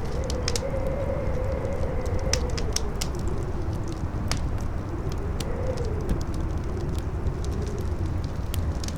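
Campfire crackling with scattered sharp pops over a howling wind, which blows with a steady deep rumble and a moaning tone that rises and falls.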